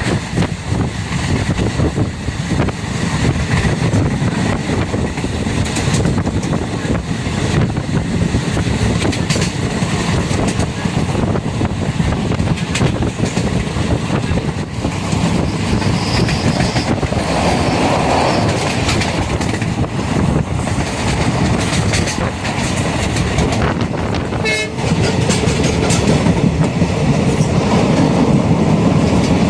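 Passenger train running at speed, heard from on board: a steady rumble with wheels clattering over rail joints.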